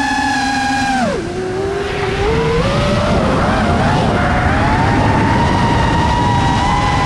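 FPV quadcopter's brushless motors whining at a steady pitch. About a second in the throttle is chopped and the whine drops sharply, then climbs back unevenly as throttle is fed in again and holds, with wind rushing past the drone.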